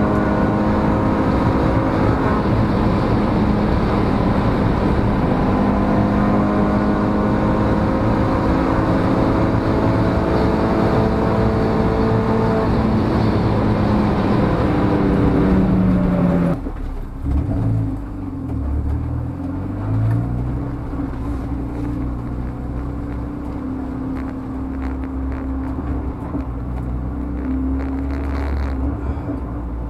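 Turbocharged 1.8-litre inline-four of a tuned Audi TT (8N) with a BorgWarner EFR 6758 turbo, heard from inside the cabin running hard at speed, its pitch steady and then easing down slightly. About halfway through the sound drops suddenly as the throttle closes, and the engine runs on at low revs, wavering briefly before settling.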